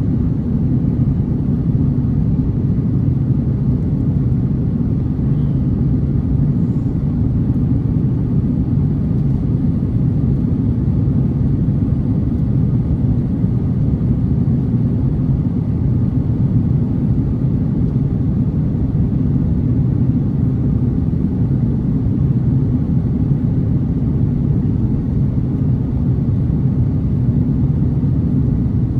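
Steady low cabin rumble of an Airbus A330-900neo in flight: its Rolls-Royce Trent 7000 engines and the airflow over the fuselage, heard from inside the passenger cabin.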